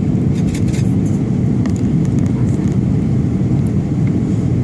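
Steady low roar of a passenger airliner in descent, engine and airflow noise heard from inside the cabin, with a few faint clicks in the first second.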